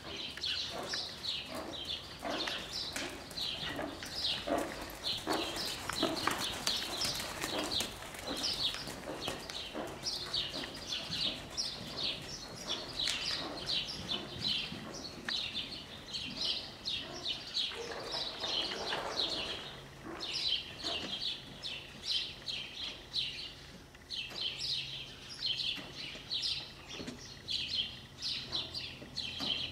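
Small birds chirping rapidly and without pause, a dense run of short high chirps, with soft dull thuds underneath.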